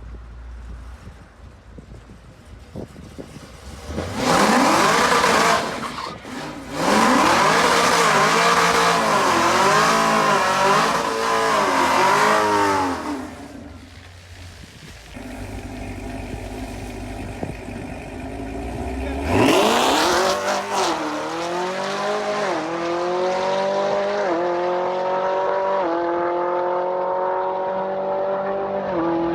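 Drag car doing a burnout, its engine revving in quick surges with tire squeal. After a lull it launches, the engine climbing in pitch and dropping back at each of several upshifts as the car pulls away.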